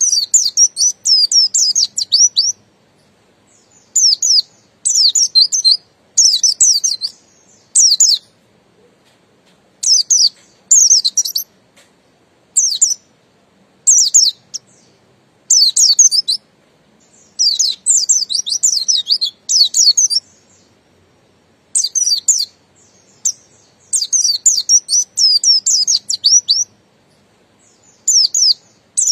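Buxtoni white-eye (pleci) singing: high, rapid twittering phrases of one to two seconds each, broken by short pauses.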